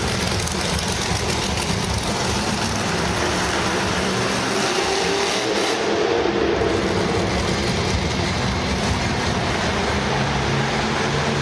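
Monster truck's supercharged V8 engine running loudly and steadily, with no clear revs up or down.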